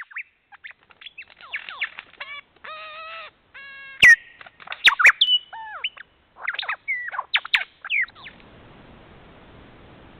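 Several birds calling: quick chirps and sliding whistles, with two longer reedy calls about three seconds in. The calls stop about eight seconds in, giving way to a steady faint hiss.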